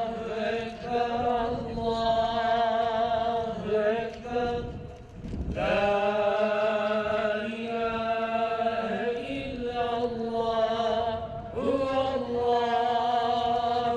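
A single man's voice chanting a melodic Islamic religious recitation, with long held notes and ornamented turns. It breaks off for a breath about five seconds in and again at about eleven and a half seconds.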